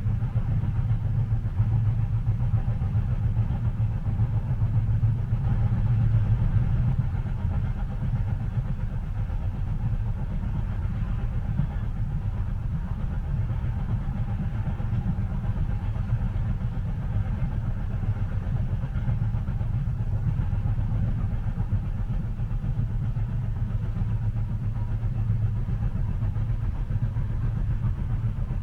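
Steady low rumble of a moving train heard from inside a passenger car, even and unbroken throughout.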